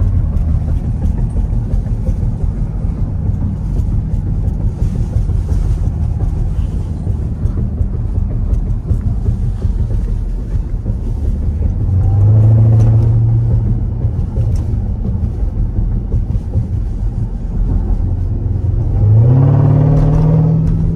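Jeep Grand Cherokee Trackhawk's supercharged 6.2-litre V8 heard from inside the cabin while driving, a steady low drone. The engine note swells as it accelerates about twelve seconds in, then rises sharply again near the end.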